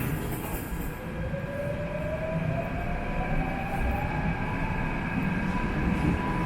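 Subway train pulling away, its electric traction motors giving a whine that rises steadily in pitch over the first few seconds, over the rumble of the running train.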